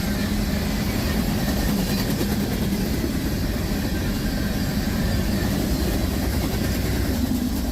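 Freight train of sand cars rolling past: a steady, loud rumble and rail noise from the wheels on the track.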